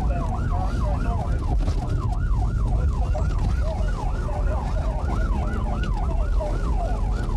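Police car siren on the fast yelp setting, its pitch sweeping quickly up and down about three times a second, over a steady low engine and road rumble.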